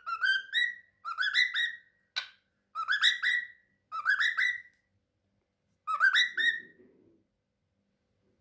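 Pet cockatiel whistling in short phrases of quick, rising notes, about six phrases with brief pauses between them, then stopping about a second before the end.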